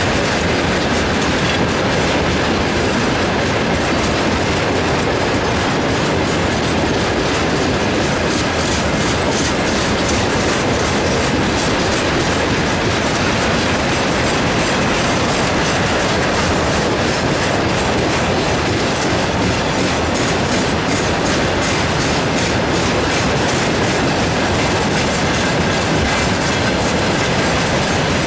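Freight train wagons, mostly railway tank cars, rolling past: a steady loud rumble of steel wheels on the rails with a rhythmic clickety-clack as the wheelsets cross rail joints.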